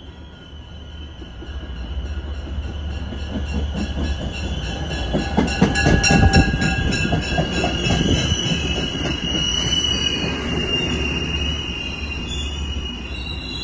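MBTA commuter rail train pulling in past the platform with a steady high-pitched squeal. Its wheels clatter over the rail joints, loudest about six seconds in, as the locomotive and coaches go by.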